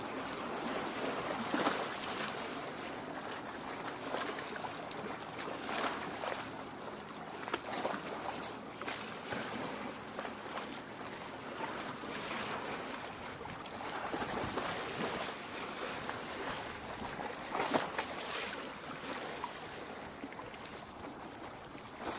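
Small lake waves lapping against the shore: a steady wash of water with irregular splashes every few seconds.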